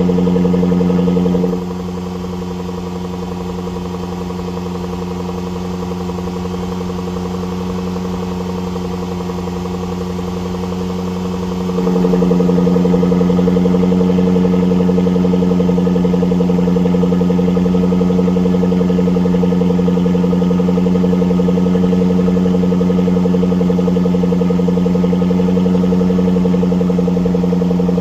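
Range Rover L405's supercharged 5.0-litre V8 running at a steady speed through a valved exhaust with the resonator deleted. The pitch holds steady, but the exhaust goes noticeably quieter about two seconds in and comes back louder about twelve seconds in.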